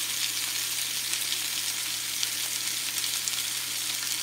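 Chicken pieces browning in a frying pan, a steady sizzle with small scattered crackles.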